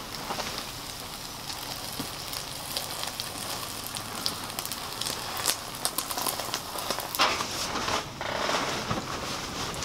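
Eggs and a tortilla sizzling in a frying pan, a steady crackle with the scattered clicks and scrapes of a spatula working the food.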